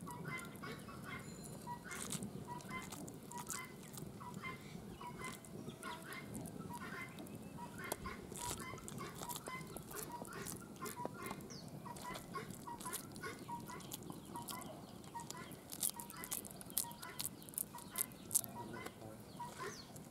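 Birds calling in short, repeated, clucking-like notes, several a second, with light clicks and squishing from hands pressing vada dough into a metal steamer plate; the clicks grow louder near the end.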